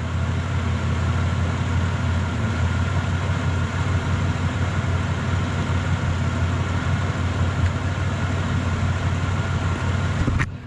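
2003 Chevrolet Impala's V6 idling steadily through its newly repaired exhaust, a new pipe section in place of the holed one, heard close to the exhaust. The sound cuts off abruptly near the end.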